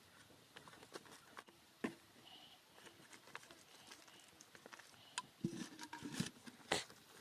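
Scattered light clicks and knocks, with a cluster of heavier thumps about five to seven seconds in.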